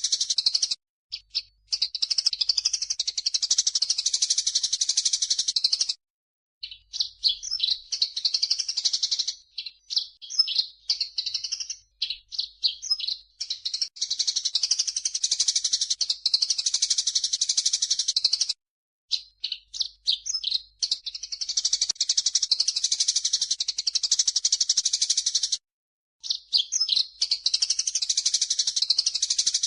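Recorded calls of cucak jenggot (grey-cheeked bulbul) and Eurasian tree sparrows mixed as a songbird tutor track: long stretches of dense, rapid, high chattering alternating with runs of separate sweeping notes, cut into segments with brief silent gaps.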